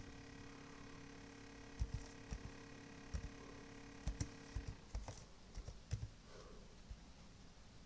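Irregular light clicks and knocks from an Asus UX431F laptop with a rattle inside it. A faint steady hum runs underneath and stops a little past halfway.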